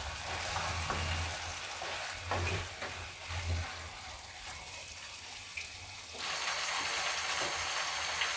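Beef and vegetables in sauce sizzling in a nonstick frying pan over high heat, with a wooden spatula stirring and scraping through the food in the first few seconds. The sizzle gets louder about six seconds in.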